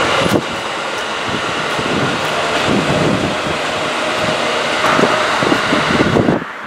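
JR Central 211 series electric train running on the rails as it pulls away, with wind buffeting the microphone. The train sound cuts off abruptly shortly before the end, leaving only wind noise.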